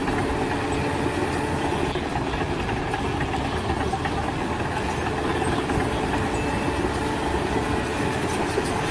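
A machine's engine running steadily, a constant mechanical rumble.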